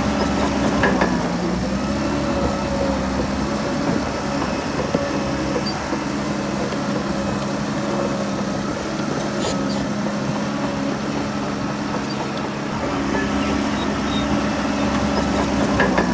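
Heavy earthmoving machine's diesel engine running steadily under work, its pitch sagging briefly about a second in and again near the end, with a few sharp metallic clanks.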